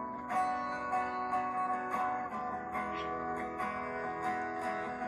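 Acoustic guitar playing chords of a Thai pop song, each chord struck about once a second, with no singing.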